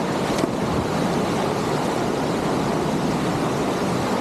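Steady rush of a waterfall, an even wash of falling-water noise with no breaks.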